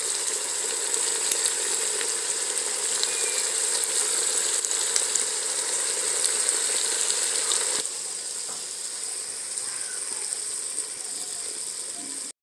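Food sizzling and crackling in hot oil in a pan, a steady hiss with fine pops. It drops a little about 8 seconds in and cuts off suddenly at the end.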